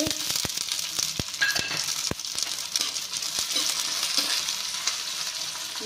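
Green peas sizzling as they go into hot oil with onions in a kadhai and are stirred. A steel spoon knocks against the metal bowl and pan about five times in the first two seconds as the peas are scraped in.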